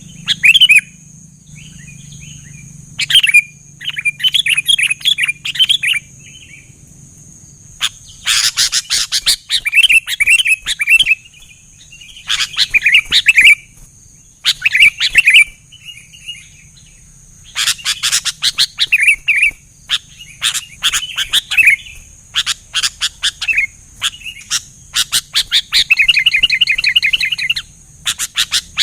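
Sooty-headed bulbuls calling: repeated bursts of quick, bubbly chirping notes, each burst a second or two long with short pauses between, some bursts fast and rattling near the end.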